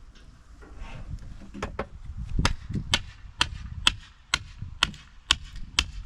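Spade chopping into loose soil around a post: a run of about eight sharp strikes, roughly two a second, after a few lighter ones.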